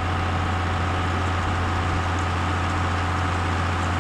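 Tractor engine running steadily at an even pitch, with a strong low hum.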